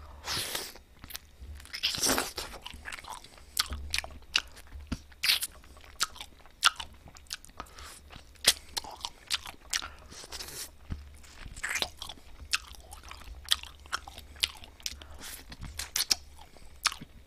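Close-up eating sounds: a person biting and chewing a piece of glazed baked chicken, with many irregular sharp crunches and clicks.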